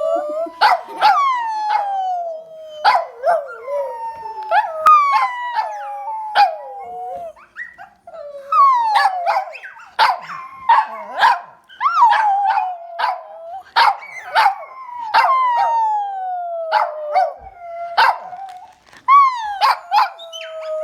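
Two dogs: one barks in short sharp barks while the other gives long, high, bird-like whining howls that slide down in pitch, over and over.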